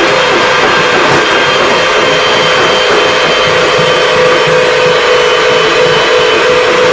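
A motor-driven machine running steadily and loudly without change, with a constant hum under a broad rushing noise.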